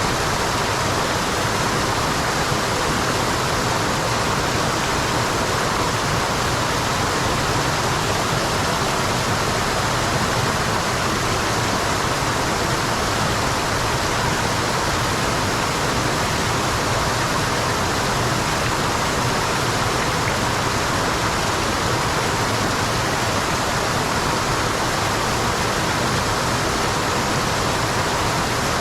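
Waterfall, water falling and rushing in a steady, unbroken roar of noise.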